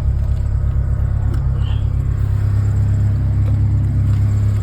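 A steady low rumble, with a few faint knocks over it.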